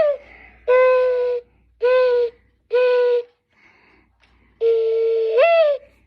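Bird clock playing its recorded mourning dove call: three short, low coos, then about halfway in the call begins again with a long coo that slides up at its end.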